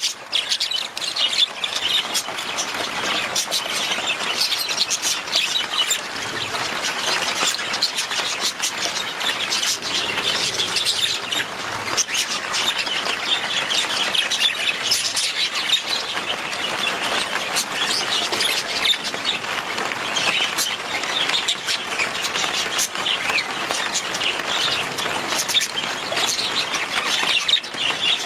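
A flock of budgerigars chirping and chattering, many calls overlapping without a break.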